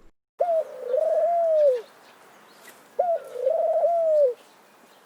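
A pigeon cooing: two drawn-out, throaty coos, the second starting a little over two seconds after the first.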